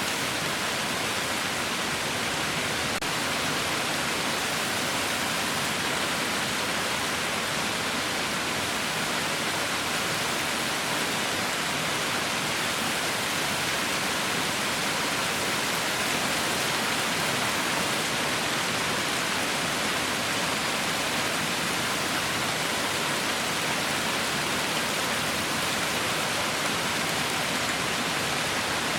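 Heavy rain falling, a steady, even hiss with no distinct drops or thunder.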